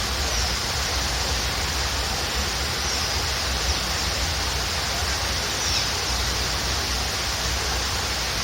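Waterfall rushing steadily, with a few faint, short, downward-sliding bird chirps every few seconds.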